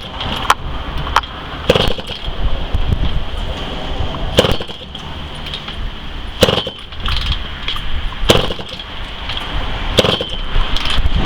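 Kawasaki KX125 single-cylinder two-stroke engine on a stand, run without its carburetor: sharp single pops or bangs about every two seconds over a steady mechanical noise, as it fires only now and then instead of running steadily.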